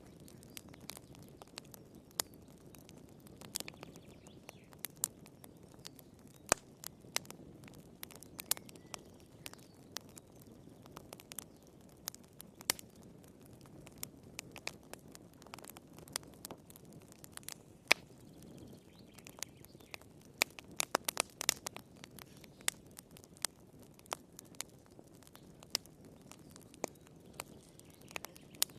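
Wood fire crackling in a fireplace: irregular sharp pops and snaps over a low, steady rush of the flames, with a burst of quick pops about two-thirds of the way through.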